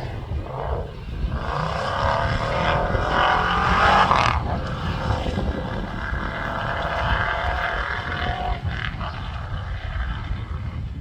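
Competition safari off-road car's engine running hard under load, its pitch climbing and falling as it revs and changes gear, loudest about four seconds in, over a steady low rumble.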